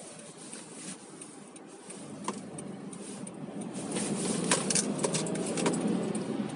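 Car interior noise while driving: engine and road noise that grows louder about four seconds in as the car picks up speed, with scattered light clicks and rattles.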